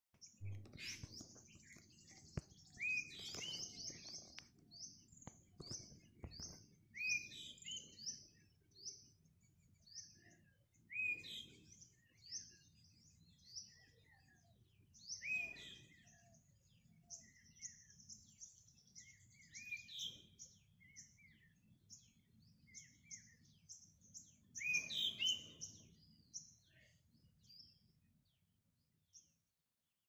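Wild birds singing: quick runs of short, high chirps throughout, with a louder, lower call every four to five seconds. A few sharp clicks come near the start, over a faint low rumble.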